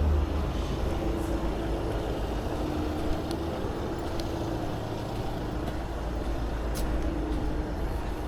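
Engine running steadily with a low rumble and a faint hum that comes and goes; a deeper hum fades out about half a second in.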